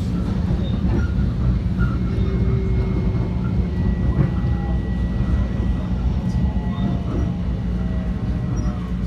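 Metro-North commuter train running at speed, heard from inside the passenger car: a steady low rumble of wheels on the rails, with a faint high whine and a few faint tones that slide downward late on.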